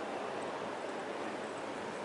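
Sea surf washing steadily on the shore, with wind on the microphone: an even, unbroken rush of noise.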